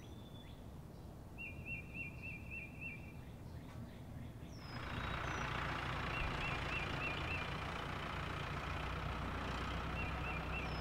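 Quick strings of bird chirps. A little past four seconds in, a car engine sound effect comes in and runs steadily as the car drives on, with the chirps still heard over it.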